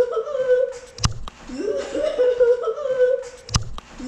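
A short comic sound clip played on a loop: a sharp knock, then a high-pitched voice that rises and wavers on a held note, like a squeaky laugh. The pattern repeats about every two and a half seconds.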